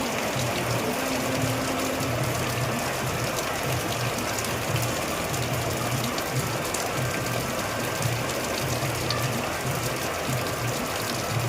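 Heavy rain falling: a steady hiss with scattered sharp drop ticks. Underneath runs a low, irregular throbbing hum.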